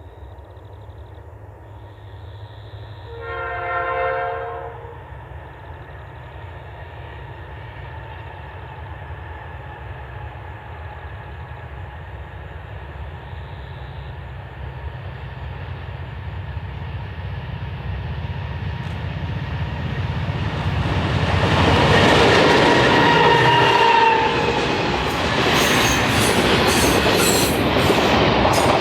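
Diesel-electric locomotive sounding one horn blast, then its engines growing steadily louder as the train approaches and passes close by, with wheels clicking rapidly over rail joints near the end.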